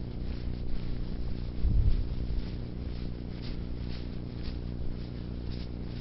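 Snow crunching and scraping in short strokes, several about half a second apart, over a steady low hum, with one louder low thump about two seconds in.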